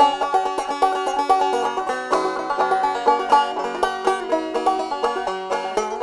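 Banjo picking a quick instrumental break between verses of a country folk song, a rapid run of plucked notes.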